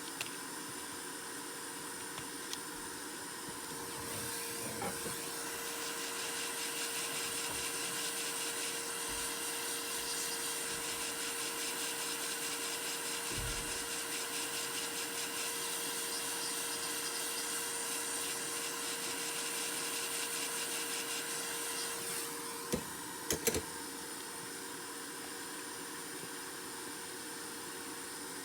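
A small motor or fan running steadily with a hum and hiss for about eighteen seconds, then stopping, followed by a few sharp clicks.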